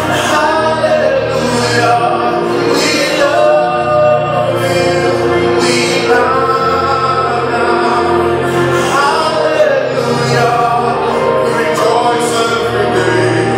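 Gospel song: voices singing long, held notes over instrumental backing with sustained bass notes.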